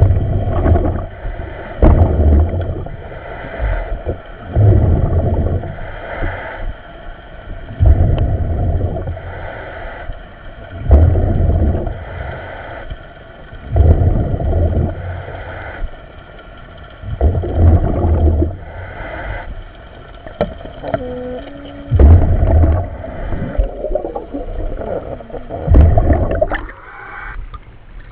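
A commercial diver breathing in a surface-supplied helmet, heard over the diver's communication line: a gurgling rush of exhaust bubbles about every three seconds.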